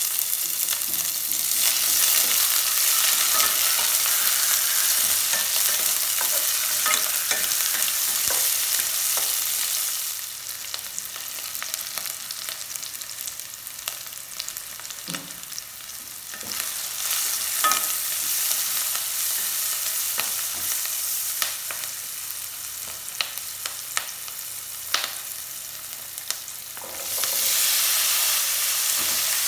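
Chopped onions, curry leaves and garlic sizzling in hot oil in a stainless steel pan while being stirred, with a few sharp clicks of utensils against the pan. The sizzle dies down about ten seconds in and swells again near the end, when pieces of kozhumichai citron are in the pan.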